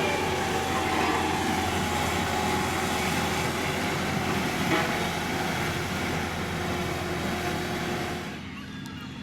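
Diesel engine of heavy road-building machinery running steadily with a deep drone. About eight seconds in the sound drops abruptly to a quieter background.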